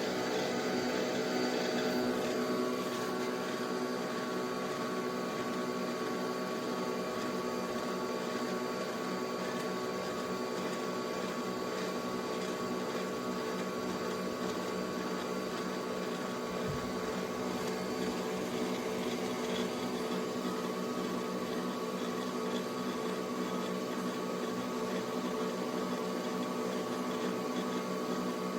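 Nespresso Vertuo coffee machine brewing, its motor spinning the capsule with a steady, even hum.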